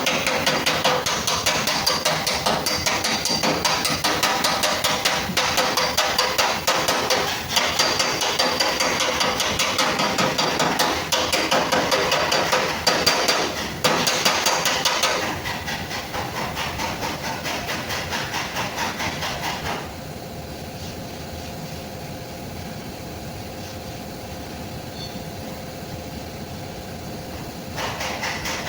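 Rapid, steady hammering on a car's sheet-metal fender panel during body repair, many strikes a second. The strikes grow softer about two-thirds of the way through, then pick up again at the very end.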